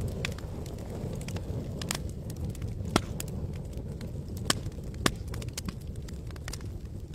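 Campfire crackling: scattered sharp pops and snaps of burning wood over a low steady rumble, with three louder pops about three, four and a half and five seconds in.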